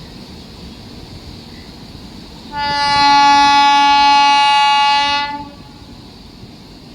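Train horn sounding one long steady blast of about three seconds, starting a little before halfway, over a steady background rumble.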